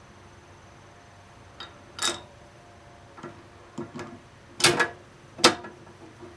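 A screwdriver and heater parts being handled while a propane forced-air heater is assembled. It makes a series of irregular clicks and knocks, the loudest two close together near the end.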